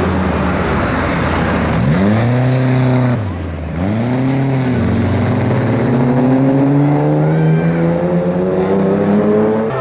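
Rally car engine at high revs, blipped up twice with a brief lift off the throttle between, then pulling in one long rising sweep as the car accelerates hard.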